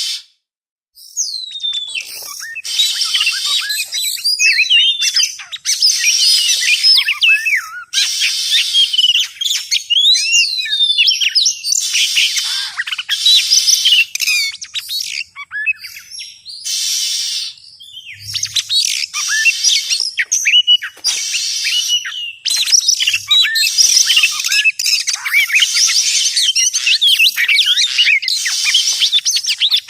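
Oriental magpie-robin (kacer) singing a fast, varied song of sweeping whistles, chirps and harsher notes, in bursts with short breaks. It is a recorded lure song of the kind played to attract or stir up magpie-robins. The song starts after a brief gap about a second in.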